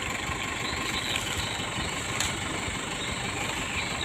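Truck engine idling steadily, with a brief sharp click about halfway through.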